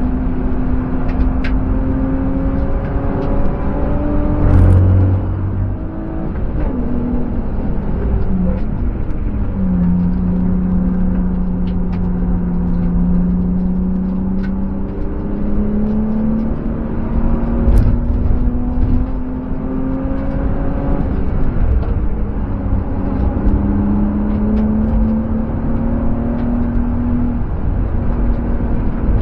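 BMW M50B25TU 2.5-litre straight-six in an E36 coupe, heard from inside the cabin on track: the engine note falls as the car slows for a tight corner, then rises as it accelerates out, dropping back at each upshift. A brief low thump comes about four seconds in.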